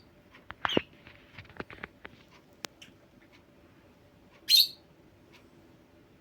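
Pet parrot giving one short, loud, harsh chirp about four and a half seconds in, with a few soft clicks and faint chirps in the first couple of seconds.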